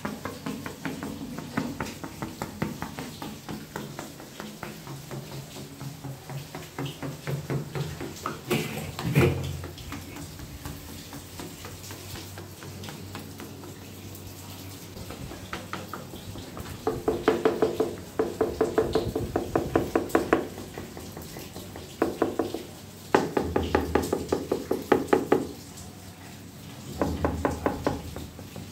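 Ceramic wall or floor tiles being tapped in fast runs to check for voids behind them, where a hollow-sounding spot marks poor adhesive bedding. Each tap rings briefly, and the loudest runs come in three bursts in the second half.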